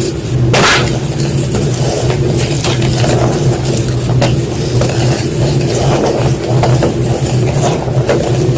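White gym chalk being crunched: irregular short crunches, the loudest about half a second in, over a steady low hum.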